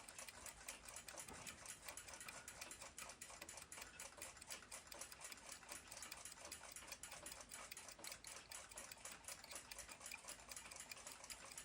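Faint, rapid, even ticking of a Junghans ship's clock movement running on its platform escapement.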